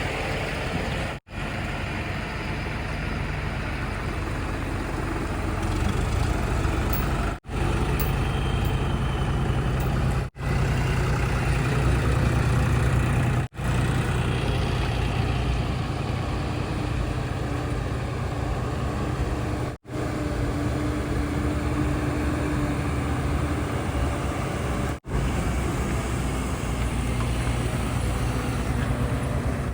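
Heavy diesel engines running steadily, with a deep drone that swells a little at times; the sound drops out for a split second about six times.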